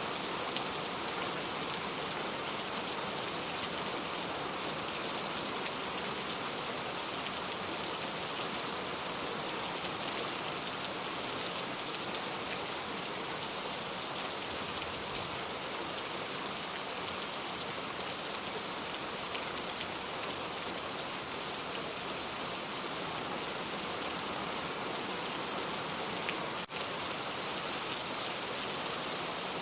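Steady rain falling, an even hiss with no let-up, dropping out for an instant near the end.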